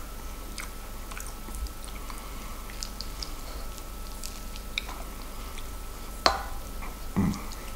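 Close-up chewing of a mouthful of corned beef hash, with small wet mouth clicks and a wooden spoon scraping and tapping the plate. A sharper click comes about six seconds in, and a soft thump about a second later.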